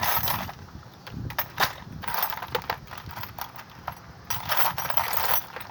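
Metal parts and hand tools clinking, knocking and scraping in irregular bursts as an ice maker is taken apart.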